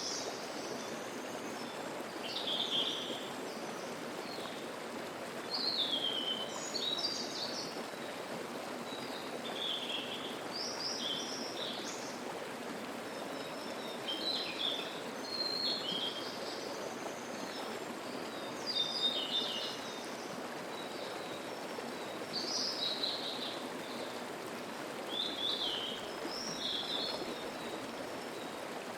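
Mountain stream babbling steadily, with a songbird singing short, high-pitched phrases every one to three seconds over it.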